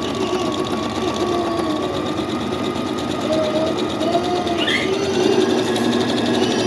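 Brother electric sewing machine running steadily under foot-pedal control, its needle stitching through cloth in a fast even rhythm: the first seam being sewn.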